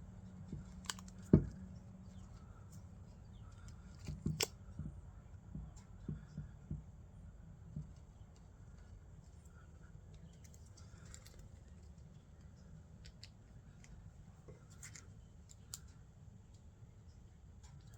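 Scattered small clicks and taps from hands handling small metal and plastic parts, with one sharp knock about a second and a half in and a short run of clicks around four seconds in, over a low steady background.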